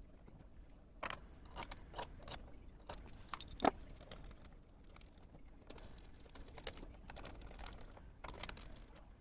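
Irregular light clicks and clatter of small tools or metal parts being handled and set down, with one sharper knock about three and a half seconds in.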